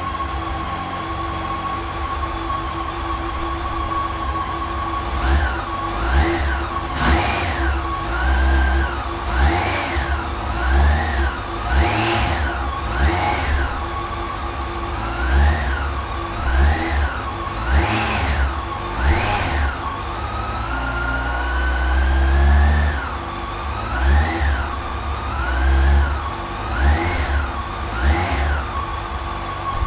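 2003 Yamaha FJR1300's inline four-cylinder engine idling, then revved with a long series of short throttle blips, each rising and dropping back quickly. About two-thirds through, the revs climb slowly and hold for a couple of seconds. It settles back to a steady idle near the end.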